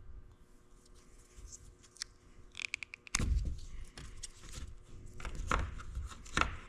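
Wiring harness being worked by hand, its protective sheath cut and peeled back from the wires: a few sharp clicks about two and a half seconds in, then louder tearing and scraping.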